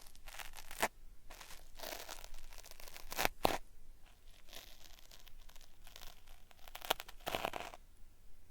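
Cotton swab scraping and rubbing in the ear of a binaural microphone, an irregular run of crackly, peeling-sounding strokes that dies away near the end.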